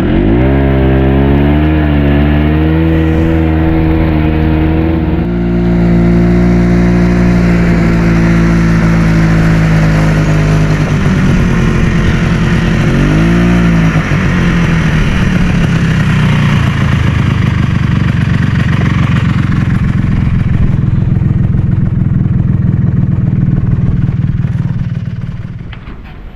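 A small vehicle's engine pulls away with its pitch rising in the first second, then runs at a steady speed. About thirteen seconds in it eases off and picks up again, and it fades near the end.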